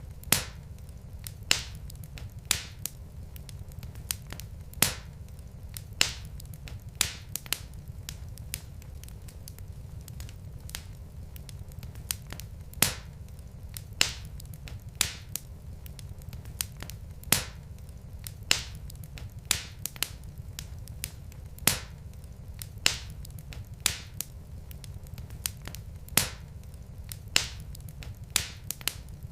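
Wood fire burning in a fireplace: logs crackling with sharp, irregular pops about once or twice a second over a steady low rumble of the flames.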